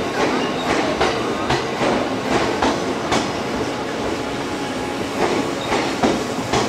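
E001 series Train Suite Shiki-shima cars rolling past as the train departs: a steady rumble, with the wheels clacking over rail joints one to two times a second.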